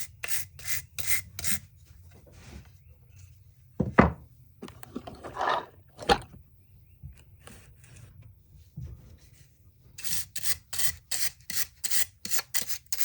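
A brush scrubbing the dirty parts of a DeWalt DCD780 cordless drill in quick back-and-forth strokes, about three or four a second, in two runs. In the quieter middle two sharp knocks come as the parts are handled, the first the loudest sound.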